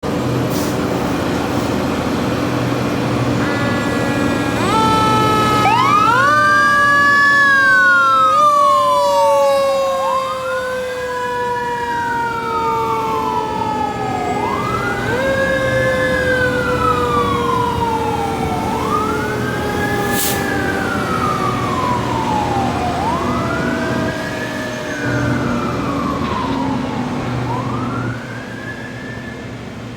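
Fire truck siren starting up about four seconds in and wailing, each cycle rising quickly and falling slowly about every four seconds, over the truck's engine running steadily. A second, lower siren tone slides slowly downward underneath. The level drops near the end.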